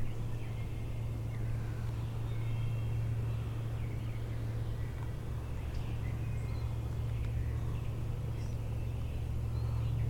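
A steady low hum with faint songbird chirps scattered through it.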